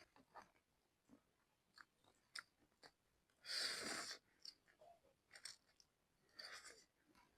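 Close-miked eating of creamy ramen noodles: small wet mouth clicks and chewing, with two louder noisy bursts, one about three and a half seconds in and another about six and a half seconds in.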